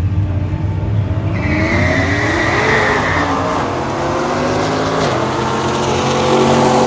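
Drag-racing vehicle engine accelerating hard down the strip, its pitch climbing for several seconds. Near the five-second mark the pitch drops suddenly at a gear shift, then holds steady.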